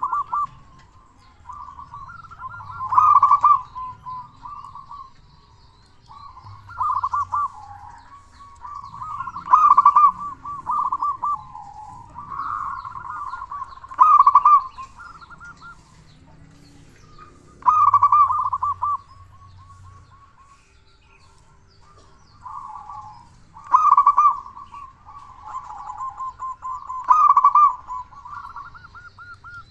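Zebra dove (local perkutut) singing its loud cooing song: phrases of rapid stuttering notes, repeated about every three to four seconds, with a longer pause about two-thirds of the way through.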